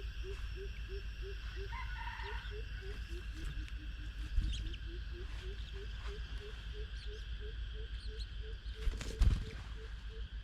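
A short, low animal call repeated in a steady rhythm about three times a second, with a brief higher bird chirp about two seconds in and a loud knock near the end.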